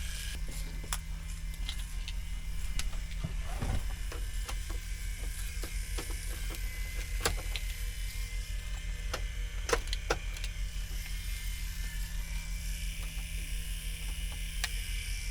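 Steady low hum of a DAF XF 480 truck's diesel engine idling, with scattered light clicks and knocks.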